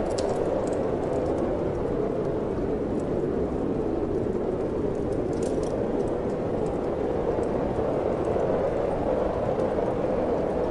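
Steady wind blowing, with a few faint crackles and pops from a wood fire, a small cluster of them about five and a half seconds in.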